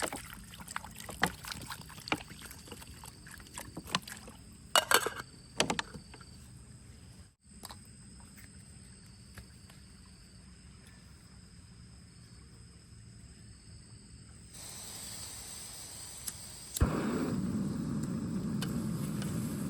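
Rain on a plastic tarp shelter: irregular drops tapping and knocking on the sheet, then a steady rain hiss that grows into a louder, fuller rush for the last few seconds.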